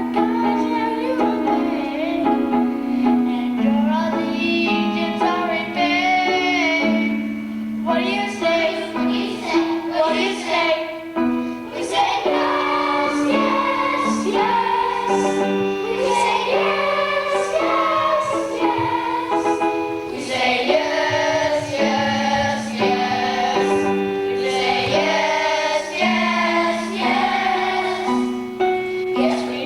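Voices singing a song together over instrumental accompaniment with a regular percussive beat.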